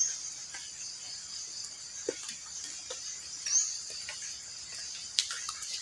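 Steady high-pitched chorus of forest insects, with a couple of short rising chirps and a few sharp clicks, the loudest about five seconds in.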